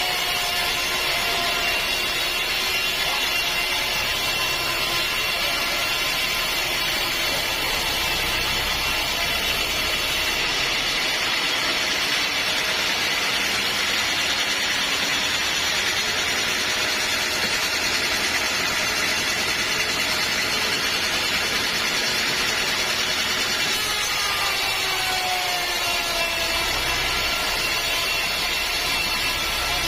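Sawmill saw running steadily while sawing a teak log, a dense mechanical drone whose pitch dips briefly near the start and again about 25 seconds in.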